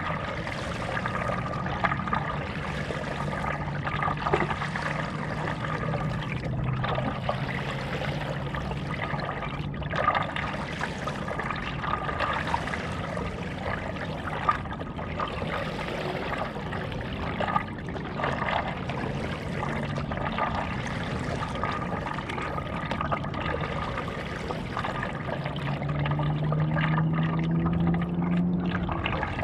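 Stand-up paddle strokes dipping and pulling through lake water about every two seconds, with water trickling and dripping off the paddle blade. A low steady hum underneath grows louder near the end.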